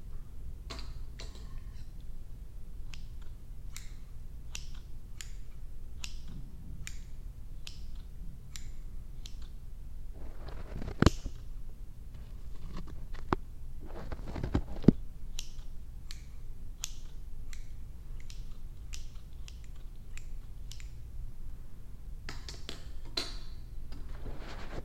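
Scissors snipping close to the microphone, a steady run of crisp snips about one to two a second, with two short louder bursts with sharp snaps about halfway through.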